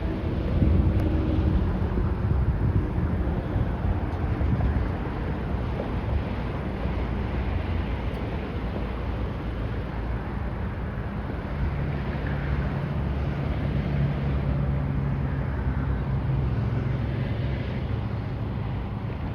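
Boeing 777-236(ER)'s Rolls-Royce Trent 895 jet engines running at taxi idle: a steady rumble with a low hum, with wind noise on the microphone.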